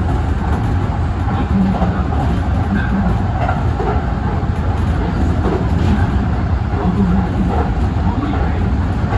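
Running noise heard inside the front car of a Kintetsu express electric train in motion: a steady low rumble of wheels on rails.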